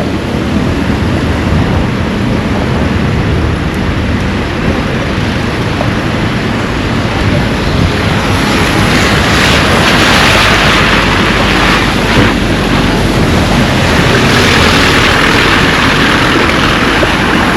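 Rain and wind buffeting the microphone: a loud, steady rushing noise with a low rumble, growing louder and brighter about halfway through.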